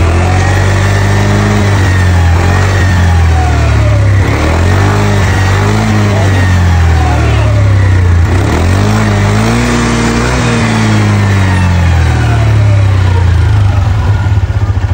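Kawasaki KRV 180's single-cylinder engine being revved up and down about five times, then dropping back to a steady idle near the end. It is running on a swapped-in ECU after the original was diagnosed as faulty and causing hard starting.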